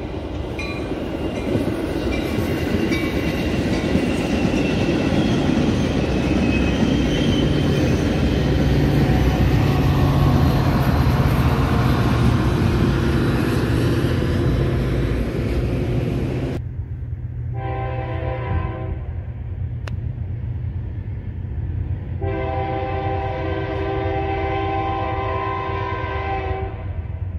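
Metra commuter train passing close by, a rumble and rattle of locomotive and wheels on the rails. It gives way to a diesel freight locomotive's air horn sounding twice, a short blast and then a long one, over a low engine rumble as the BNSF train approaches.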